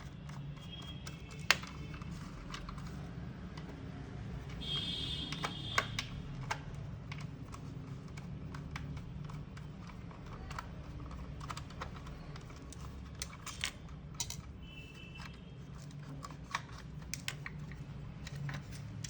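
Scattered small clicks and taps of a screwdriver and plastic speaker parts being worked apart, with a few brief squeaks, over a steady low hum. One sharp click stands out about one and a half seconds in.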